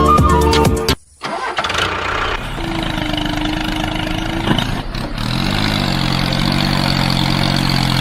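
Background music ends about a second in, then a small engine starts: a steady hum for a couple of seconds, then about five seconds in a second pitched sound rises and settles into a steady run.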